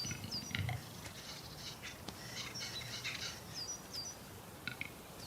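Birds calling in a pine forest: a short, high chirp that dips in pitch, repeated about half a dozen times, among scattered clicks and brief wheezy rasps.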